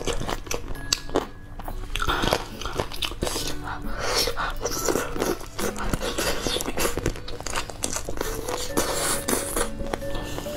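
Close-miked eating of chicken feet in spicy sauce: many short, crisp crunches of biting and chewing on the skin and cartilage, over background music.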